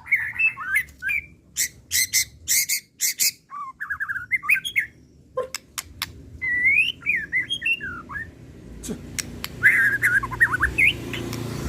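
White-rumped shama (murai batu) in agitated full song. Varied whistled phrases glide up and down, mixed with runs of sharp clicking notes.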